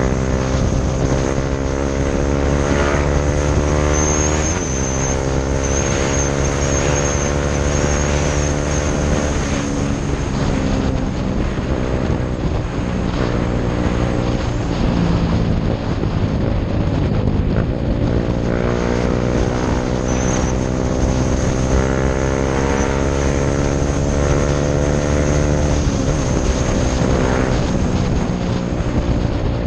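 KTM Duke 390's single-cylinder engine through a Mivv aftermarket exhaust, heard from the rider's position while riding at speed: the note climbs steadily under acceleration, drops sharply at an upshift about four and a half seconds in, climbs again, eases off for several seconds, then pulls up once more to another upshift near the end, with wind noise throughout.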